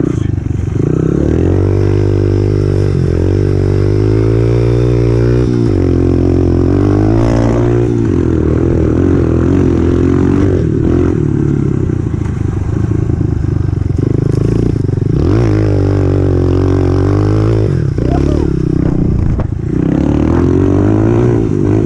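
Honda CRF125F's single-cylinder four-stroke engine running under load while riding, its pitch rising and falling repeatedly with throttle and gear changes.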